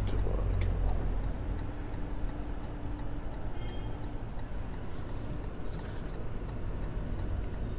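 A car engine idling with a steady low hum, with a few faint ticks and rustles over it.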